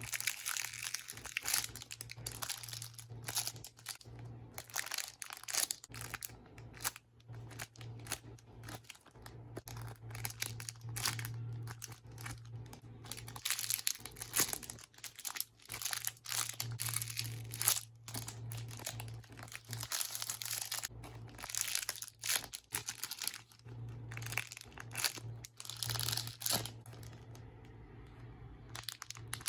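Irregular, continuous crinkling and rustling of handled plastic packaging, as squishy toys are taken out and squeezed, over a low steady electrical hum.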